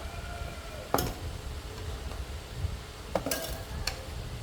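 Metal tools being handled in motorcycle repair work: a few sharp metallic clinks and knocks, one about a second in and a cluster between three and four seconds in, over a low steady rumble.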